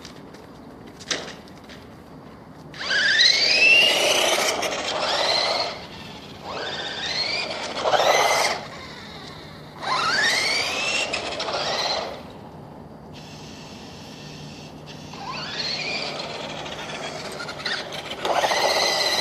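An RC car's motor whining in about five bursts of two to three seconds, the pitch rising steeply each time as the car speeds up from a stop.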